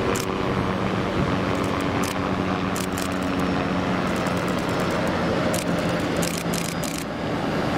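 Train passing close by: a steady low drone with scattered sharp clicks and clanks.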